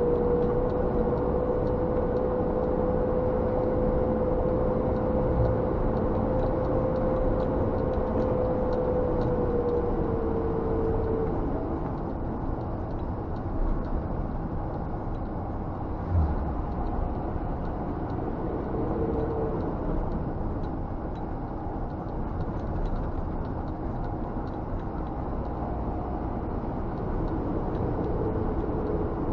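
Scania G460 truck's inline-six diesel engine and road noise heard from inside the cab while driving, a steady rumble. A steady whine sits over it and fades out about ten seconds in.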